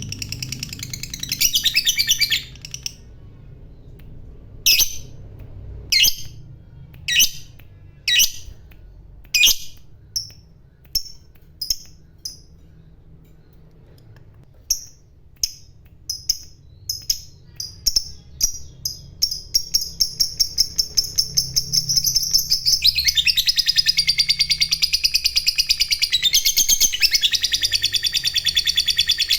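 Lovebird giving its long ngekek chattering trill. It begins with a brief trill, then sharp single chirps about one a second that speed up into a rapid, unbroken high chatter lasting the final seven seconds or so.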